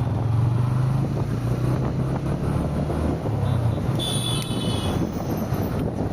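A car driving on the road: steady low engine drone and road noise, with a brief high-pitched tone about four seconds in.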